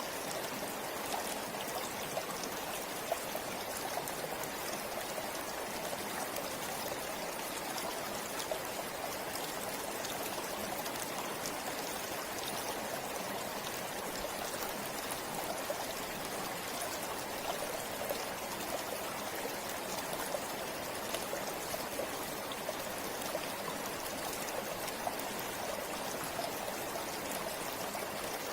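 Forest river or stream flowing: a steady rush of water with small splashes and trickles.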